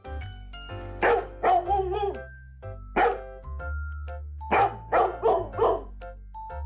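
A dog barking in short, loud bursts, about eight barks in three or four groups, over background music.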